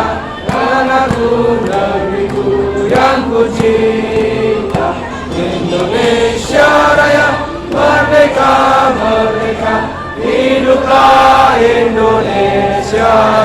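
A choir singing in long held notes over a steady low musical accompaniment.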